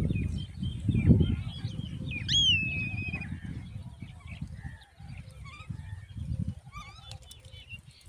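High chirping bird calls over low rumbling buffets that are loudest about a second in. About two seconds in comes one loud, clear call that rises sharply and then holds, and near the end a quick run of short rising chirps.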